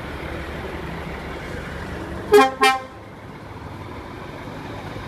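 Two short blasts of a lorry's horn a little over two seconds in, each a loud multi-tone toot, over the steady low rumble of passing truck engines.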